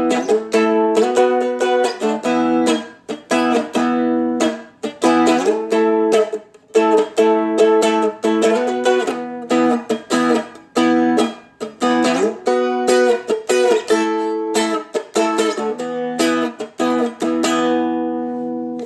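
Seagull Merlin dulcimer strummed through a blues chord progression in a choppy rhythm of quick strokes broken by short muted gaps. The last chord is left ringing near the end.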